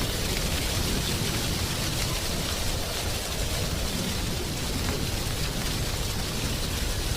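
Wind blowing through dry autumn tree leaves: a steady rustling hiss with a low rumble of wind underneath and faint scattered ticks.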